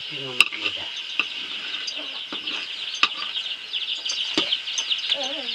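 Greens sizzling and crackling as they are stirred in a hot pan, with a few sharp clicks of a utensil against it.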